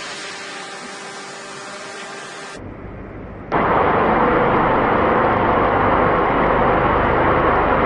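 Heavy machine-shop machinery running. A steady hum with several even tones is cut off abruptly, and about three and a half seconds in a much louder, dense rumbling machining noise takes over and holds steady.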